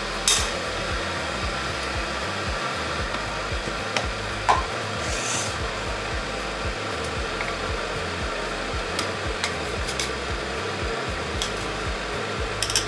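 A small electric appliance motor running steadily with a loud blowing noise, cutting off abruptly near the end, over faint background music.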